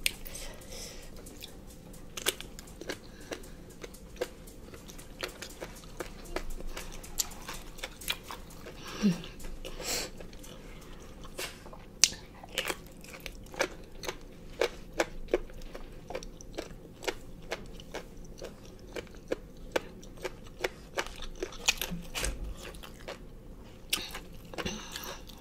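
Crunchy chewing and biting of boiled pig ear with its cartilage, eaten in chili sauce: many sharp, irregular crunches, one after another.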